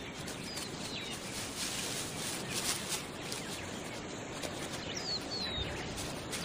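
Natural bush ambience: a small bird gives a pair of short, high, falling chirps about half a second in and again about five seconds in, over a steady hiss of the outdoors with scattered soft clicks and rustles.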